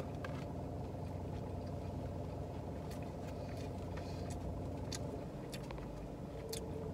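Steady low hum of a car engine idling, heard from inside the cabin, with a few faint clicks scattered over it.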